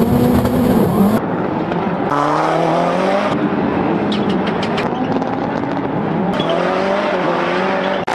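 Race car engine revving hard, its pitch climbing and then dropping several times as it shifts through the gears, with tyre noise underneath. A quick run of sharp clicks comes about halfway through.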